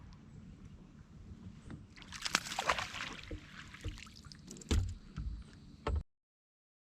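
Water splashing and sloshing beside a kayak for about a second and a half, followed by a few sharp knocks and dull thuds on the hull. The sound cuts off suddenly about six seconds in.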